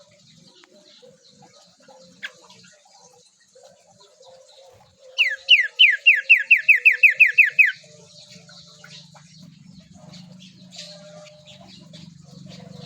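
Pet bird calling: one loud run of about a dozen quick, sharp notes, each sliding down in pitch, about five a second for some two and a half seconds, midway through. Faint chirps before and after, and a low steady hum in the latter part.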